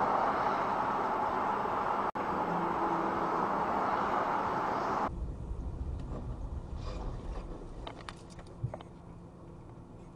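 Steady road and engine noise of a moving car heard from inside. About five seconds in it cuts suddenly to a quieter low rumble with a few faint clicks and a small thump.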